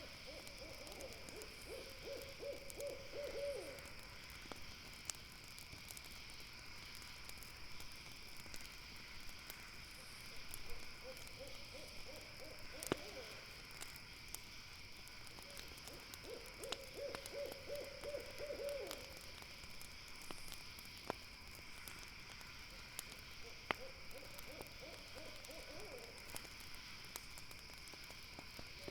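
An owl hooting in four runs of rapid low notes, each about three seconds long, over a steady high-pitched insect chorus. A few sharp crackles from a campfire come in between.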